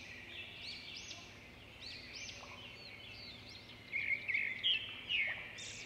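Small birds chirping and twittering: a quick, overlapping series of short high calls that grows busier near the end.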